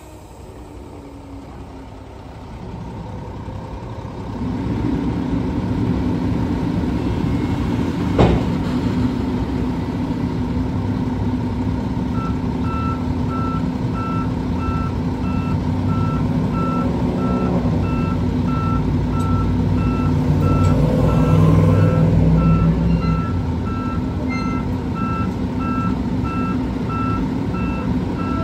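Excavator diesel engine running and growing louder a few seconds in, with one sharp metallic knock, as the machine is driven off a lowboy trailer. From about twelve seconds in its travel alarm beeps steadily and rapidly while it tracks.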